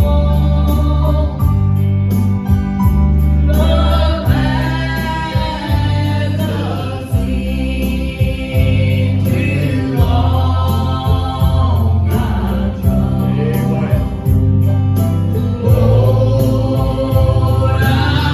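Gospel singing with instrumental accompaniment: voices sing held phrases over a steady low bass line.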